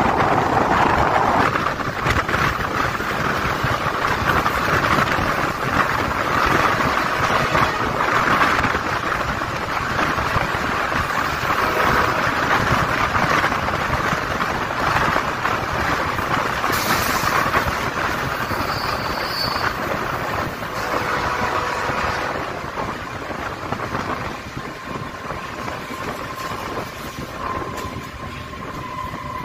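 Passenger train running along the track, heard from a coach window: a steady rumble of wheels on rail mixed with rushing air. It eases off after about twenty seconds, and a faint steady tone comes in near the end.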